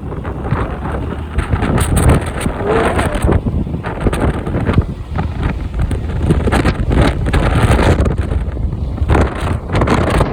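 Heavy wind buffeting the microphone in gusts, the rush of typhoon wind and airflow while riding a motorbike.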